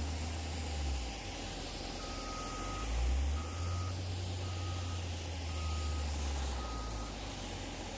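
Reversing alarm beeping five times, about a second apart, the first beep the longest, over the low steady running of a diesel truck engine.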